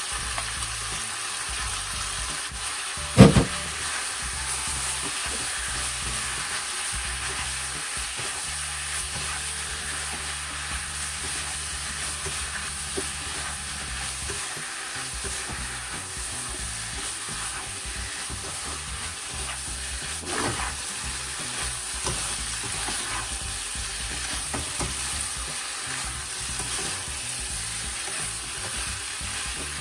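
Bitter melon, tofu, pork and egg sizzling in a hot frying pan as a slotted spatula stirs and scrapes the stir-fry. A single loud sharp knock about three seconds in, and a smaller one later.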